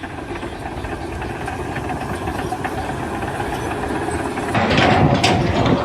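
An engine running steadily, growing somewhat louder and rougher near the end.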